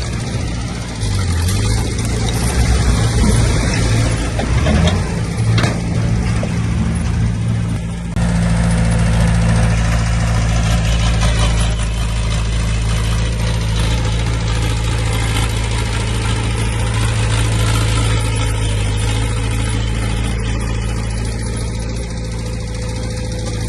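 Diesel engine of heavy earthmoving machinery running, with rough, clattering noise over it for the first eight seconds or so, then settling into a steady low drone.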